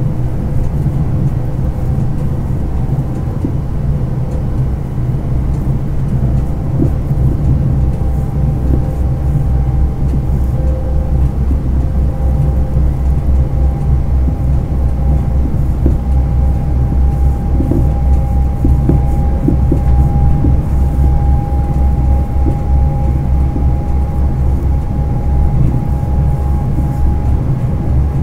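Steady low rumble of a train running, heard inside a passenger compartment, with a faint steady whine held over it.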